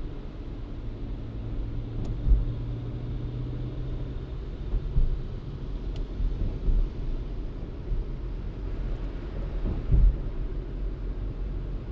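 A car driving, with a steady low rumble of engine and tyres. A low hum runs through the first few seconds, and there are short thumps a couple of seconds in and near the end.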